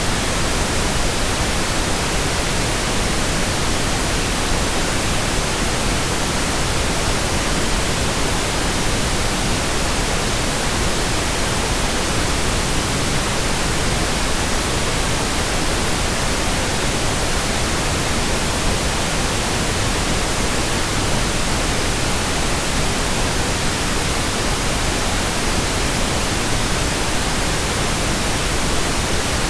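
Steady white noise: an even, unchanging hiss spread across the whole range from low to high, played as a sleep sound.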